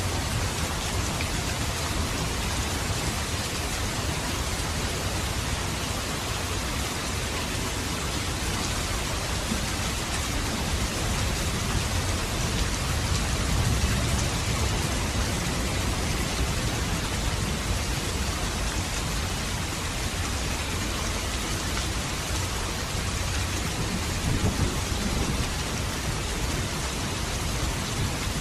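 Steady rain falling, with low rumbles of thunder swelling up twice, about halfway through and again near the end.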